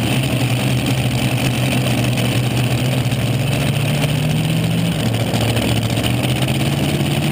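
A tractor-pull vehicle's engine running loud and steady. Its pitch dips about five seconds in and climbs back near the end.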